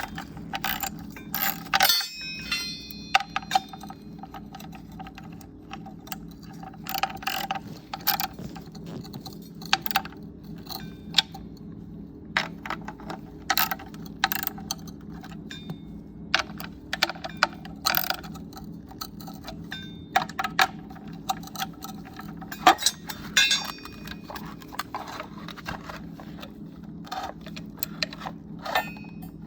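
Metal parts and hand tools clinking and rattling as they are handled, in irregular clusters of sharp clicks with a light metallic ring, over a steady low hum.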